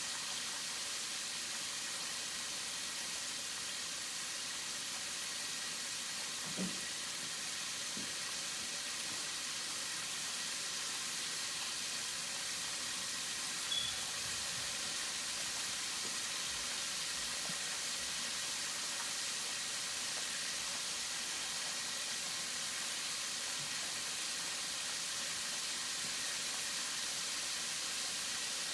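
Chicken wings frying: a steady sizzle, with two small clicks about seven and fourteen seconds in.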